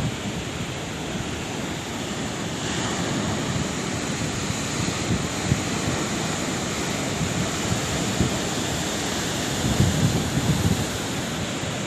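Sea waves breaking and washing in, a steady rush of surf that swells louder about ten seconds in.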